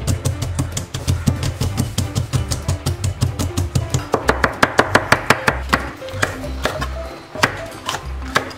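Chef's knife mincing garlic on a bamboo cutting board: quick, even chops several a second that thin out near the end, over background music.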